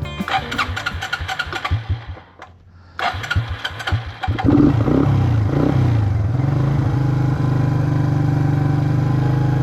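Rock guitar music fades out in the first two seconds. Then, about four and a half seconds in, an ATV (four-wheeler) engine starts, revs briefly and settles into a steady idle.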